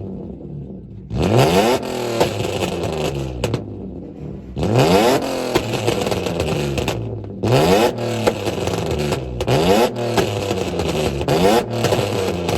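Car engine revving hard about five times, its pitch sweeping up steeply and dropping back each time.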